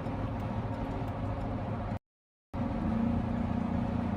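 Steady car engine and road noise, with a clean drop to dead silence for about half a second a little after two seconds in where one clip cuts to the next; after it a steady low engine hum.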